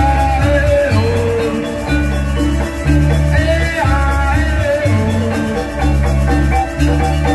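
Balinese gamelan music: metal mallet percussion playing a melody over a deep bass that pulses about once a second.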